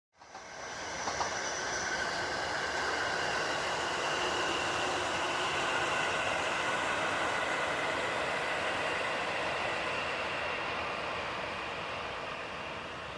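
Iida Line first electric train running past on the rails: a steady rush of wheels on track with several high whining tones over it, easing off slightly near the end.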